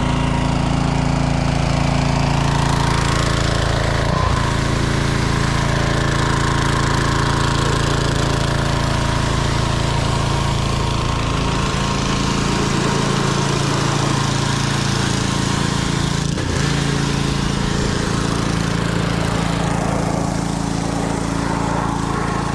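Dirt bike engine running steadily at an even speed, holding nearly the same pitch throughout.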